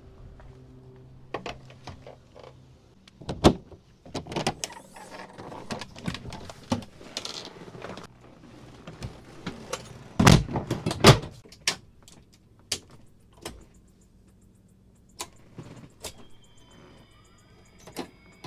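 Irregular knocks, clunks and rattles of doors and access panels being handled on an MD 500 helicopter during a preflight check. A sharp clunk comes about three seconds in and two heavy thumps about ten seconds in. A few faint high gliding tones come near the end.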